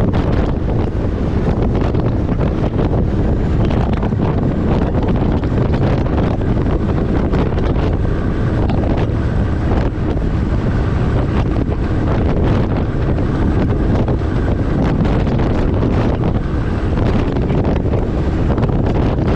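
Steady wind and road rumble of a truck driving at speed, with wind buffeting the microphone.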